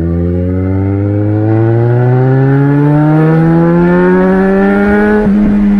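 Yamaha XJ6 motorcycle's inline-four engine on a sport exhaust, accelerating hard. Its pitch climbs steadily for about five seconds, then levels off near the end.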